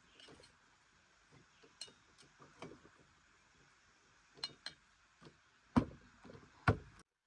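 Kitchenware being handled: scattered light clinks and knocks, with two louder thumps a little under a second apart near the end.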